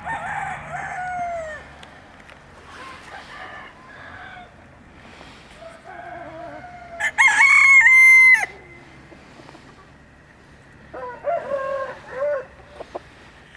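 Chickens calling: hens clucking, with one loud rooster crow about seven seconds in that lasts about a second and a half.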